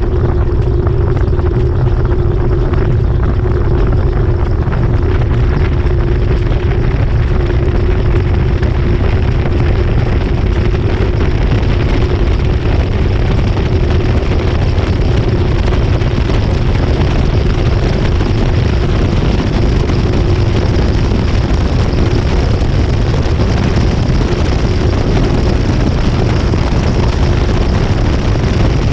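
GE top-load washing machine spinning at speed, heard from inside the tub: a loud, steady rumble with a constant motor hum, never letting up.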